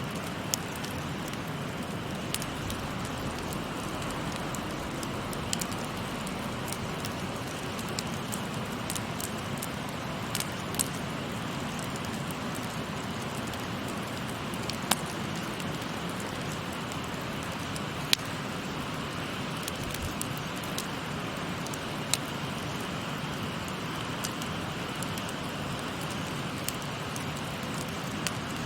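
Steady babbling of a shallow river, with a wood campfire's sharp pops and crackles scattered irregularly on top, about one every one to three seconds.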